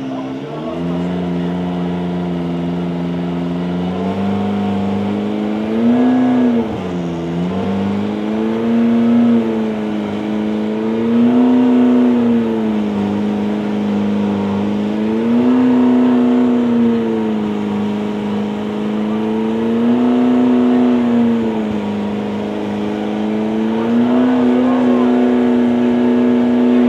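Race car engine running continuously, its pitch rising and falling smoothly every four to five seconds as the car speeds up and slows on the circuit.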